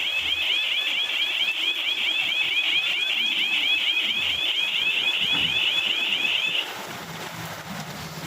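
Electronic alarm sounding a fast warbling tone, several warbles a second, which cuts off abruptly about two-thirds of the way through; a faint low hum follows.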